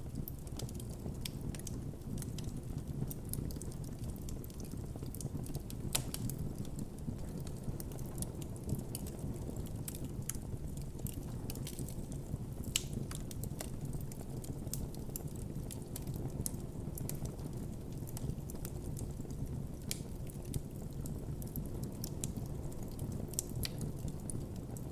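Wood campfire burning, crackling steadily with many small irregular snaps over a low rumble of the flames, and a few louder pops, one about six seconds in and one near the middle.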